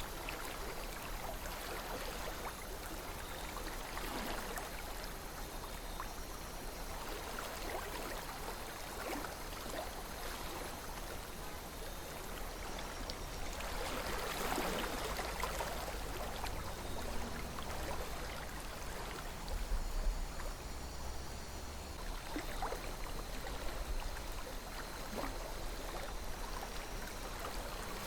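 River water flowing and babbling, a steady rush with many small splashes and trickles, briefly a little louder about halfway through.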